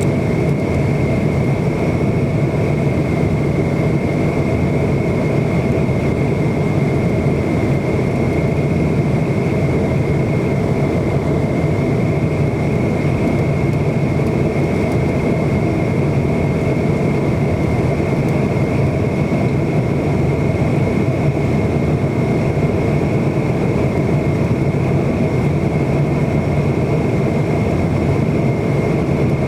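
Steady cabin noise of a McDonnell Douglas MD-90 with its rear-mounted IAE V2500 turbofans running: an even low drone with a thin steady whine above it, unchanging throughout.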